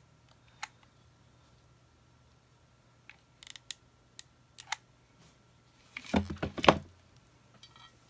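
Scattered clicks and taps of craft materials being handled on a tabletop, then a louder clatter and thump about six seconds in.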